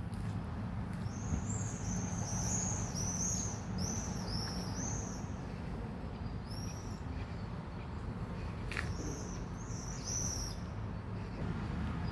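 A small bird calling in runs of quick, arched, high-pitched chirps, in three bursts, over a steady low rumble.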